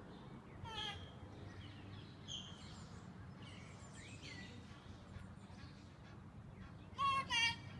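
Birds chirping faintly in the background, with two loud, short, high-pitched calls about half a second apart near the end.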